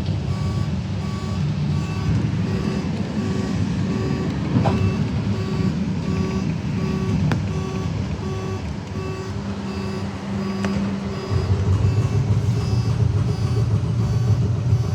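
Heritage tram running, a low rumbling ride noise that grows louder about three-quarters of the way through, with an electronic warning beep repeating steadily about twice a second over it.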